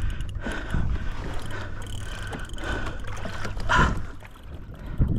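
Water sloshing against a kayak hull, with a steady low rumble from wind and water and a sharper splash about four seconds in.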